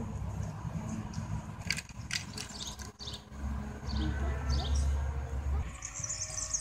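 Wild birds chirping in short, high, downward-sweeping calls: a cluster about two seconds in and more a couple of seconds later, over a low rumble in the middle.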